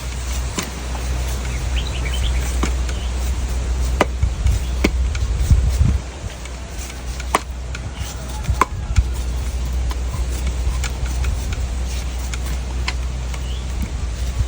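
Knife blade chopping into a coconut: single sharp strikes every second or two, over a steady low rumble.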